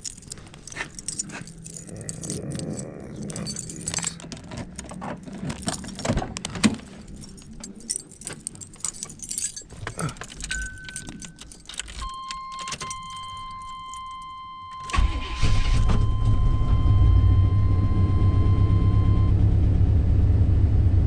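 Keys jangling and clicking, then a car's warning chime sounding steadily. About three-quarters of the way through the engine cranks, catches and settles into a steady low idle: a cold start of an old car that has sat unstarted for a while.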